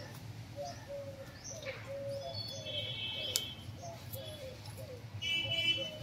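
Birds calling: short low notes repeat throughout, with brief higher chirps about two and a half seconds in and again near the end. A single sharp click comes a little after three seconds.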